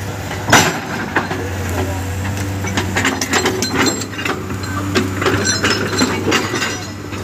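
Diesel engine of an excavator running steadily under a run of irregular clanks and knocks, stone and metal striking as the machine works rock and dirt. The knocks come thickest in the second half.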